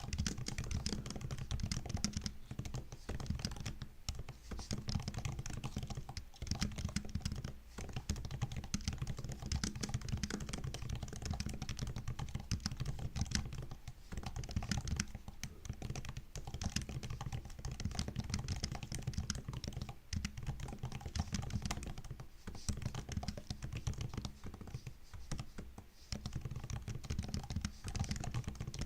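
Continuous typing on a MacBook laptop keyboard: quick, irregular key clicks and taps, with a few short pauses.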